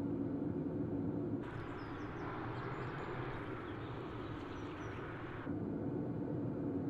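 Helicopter engine and rotor drone, steady and low, heard from inside the cabin. It switches about a second and a half in to a hissier outdoor ambience with a few faint bird chirps, and the drone returns near the end.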